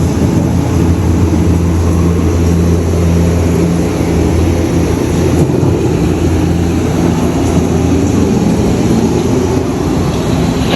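Steady low rumble and hum aboard an indoor ride boat moving along its channel.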